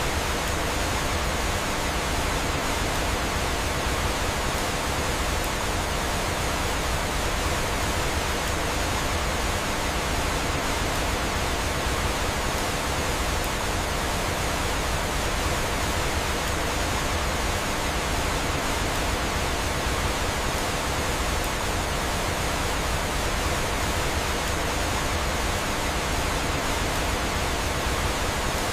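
Steady rushing of flowing water, like a small waterfall, as an even, unbroken hiss.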